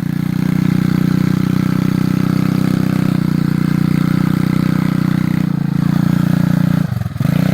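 Irbis TTR 110 pit bike's small single-cylinder four-stroke engine held at steady high revs under throttle while the bike is stuck with its wheels sunk in mud. The revs drop briefly near the end.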